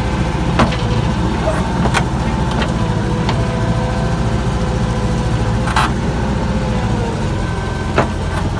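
Bobcat 632 skid steer's Ford Pinto four-cylinder engine idling steadily just after a cold start, not yet warmed up. A few sharp clicks sound over it, about four in all.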